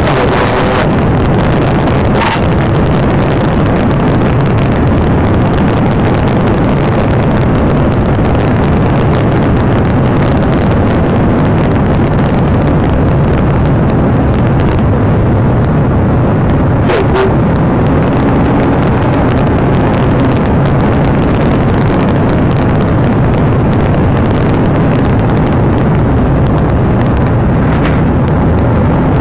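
Police patrol car driving fast in a pursuit: steady engine, tyre and wind noise, with a couple of brief clicks.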